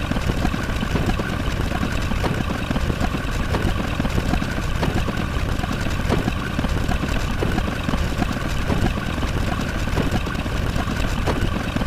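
Engine-like sound effect running steadily: a dense, unbroken rumble with no pauses.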